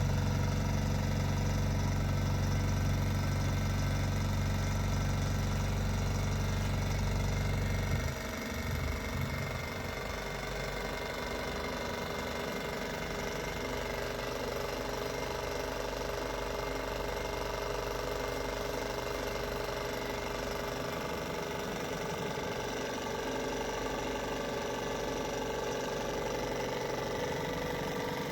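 Stirling engine generator running steadily with a mechanical whir and a steady tone. A deep hum under it cuts off about eight seconds in, and the running carries on more quietly.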